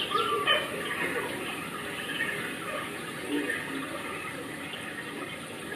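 Steady rain falling, with rainwater running.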